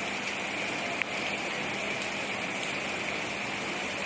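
Steady rain hissing down, with one sharp tick about a second in.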